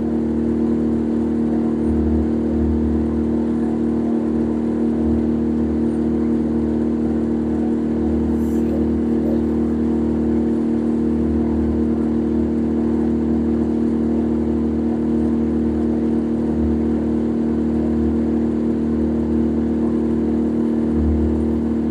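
A boat's engine running at a steady speed: an even, constant-pitched drone with a low rumble underneath that swells and fades.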